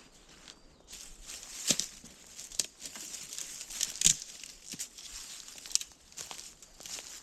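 Dry leaves and twigs on a woodland floor crunching and rustling, with irregular sharp snaps, loudest about four seconds in, as dead undergrowth is cleared and trodden.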